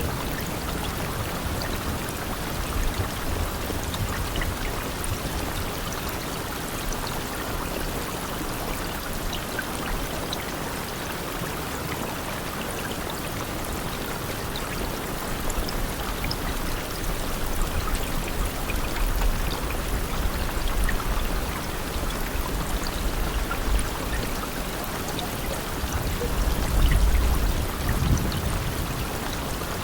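Steady heavy rain falling, a continuous hiss with scattered drop ticks, and low rumbles swelling in the background, the loudest near the end.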